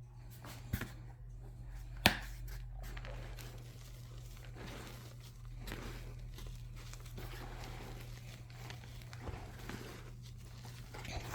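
Crunchy reformed chalk being crushed by hand: a sharp snap under a second in and a louder crack about two seconds in, then a run of dense crumbling and crackling as the pieces break down. A steady low hum runs underneath.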